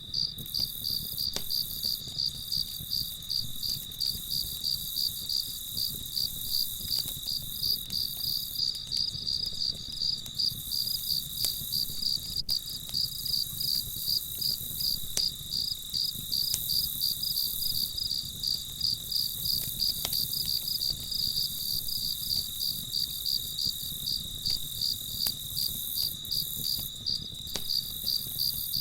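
Crickets chirping in a steady, even rhythm of a few chirps a second, with faint scattered crackles from a campfire beneath.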